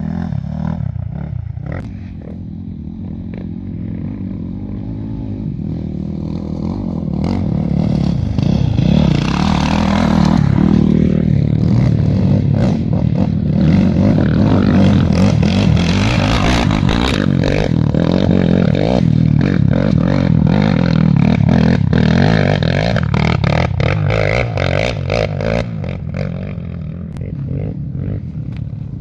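A loud motor vehicle engine running, with scraping and clattering. It grows louder about eight seconds in and eases off near the end.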